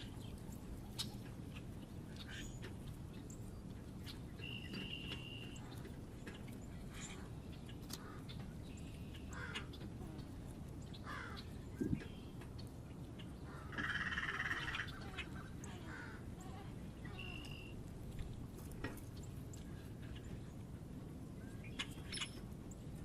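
Wild birds calling around a feeder: scattered short chirps and calls over a steady low background rumble. A louder, rough call of about a second comes a little past the middle, just after a single soft thump.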